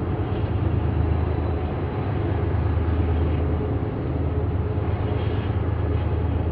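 Diesel freight locomotives running, a steady low engine drone with no change in pitch or loudness.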